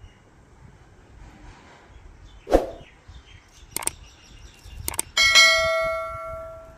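A few sharp knocks and clicks, then a metal bell struck once, ringing with several steady tones and fading over about a second and a half.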